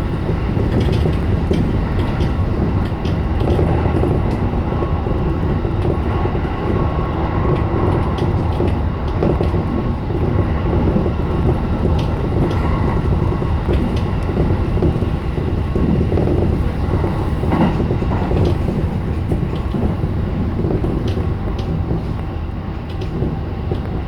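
E233 series 7000 electric train running at speed, heard from inside its front car: a steady rumble of wheels on rail with a few short clicks scattered through it.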